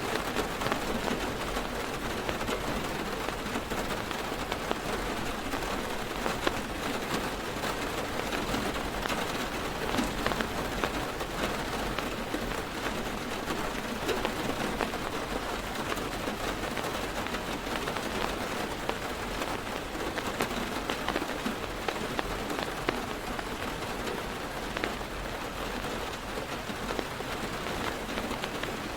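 Heavy rain drumming steadily on a car's roof and windows, heard from inside the car, with many small drop ticks.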